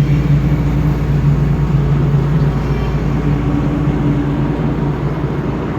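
Highway traffic noise: a steady low engine drone from heavy diesel road vehicles such as trucks, mixed with tyre and road noise.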